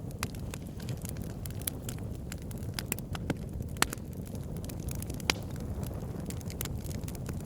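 Campfire crackling, with irregular sharp pops and snaps, the loudest a little before and a little after the middle, over a steady low rumble.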